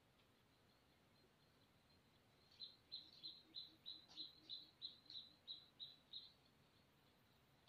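A bird calling: a series of about a dozen short, high chirps, about three a second, that starts a couple of seconds in and stops about six seconds in.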